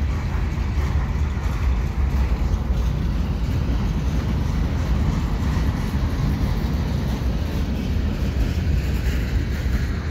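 Freight cars of a slow-moving train rolling past: a steady low rumble of steel wheels on rail, unbroken throughout.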